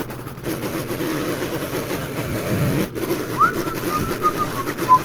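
Military 5-ton 6x6 truck's engine running steadily. From about three and a half seconds in, a high whistled tone rises quickly and then goes on as a string of short notes.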